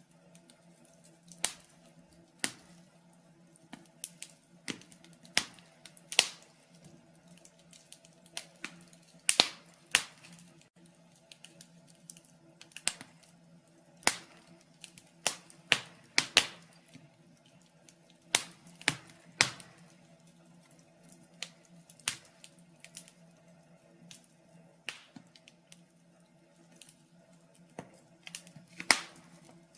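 Wood fire in a fireplace crackling, with irregular sharp pops, one or two loud ones a second among many smaller snaps, over a faint steady low hum.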